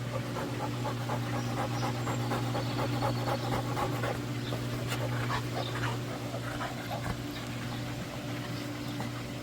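Dog panting in quick short breaths over the steady low hum of a running pool heater.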